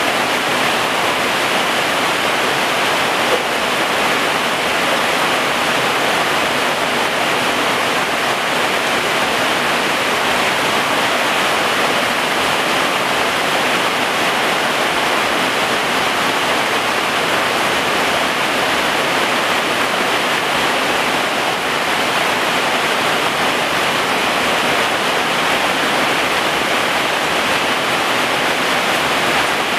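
Heavy rain pouring steadily on garden plants and ground: a dense, even hiss that does not change.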